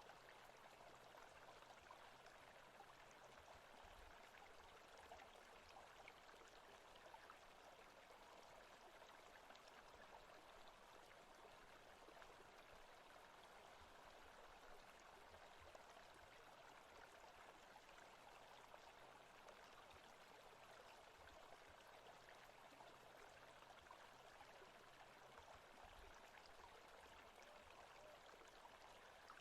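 Faint, steady forest ambience of running water, an even rush with no breaks.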